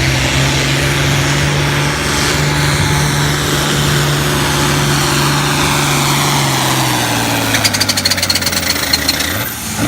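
International Harvester diesel pulling tractor running at full throttle under load on a pull. The engine note holds steady, then drops in pitch about seven seconds in as the engine slows. A rapid clatter follows near the end of the pass.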